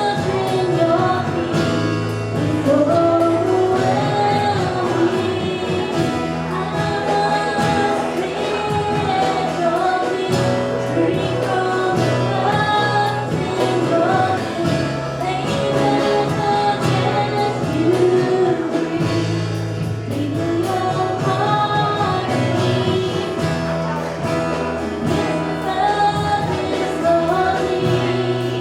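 Gospel singing with instrumental accompaniment: sung melody lines over held bass notes, with a choir.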